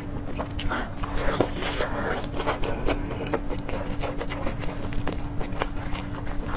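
Close-miked chewing of a cheese-coated piece of fried food: many sharp crunches and wet mouth clicks in quick, uneven succession over a faint steady hum.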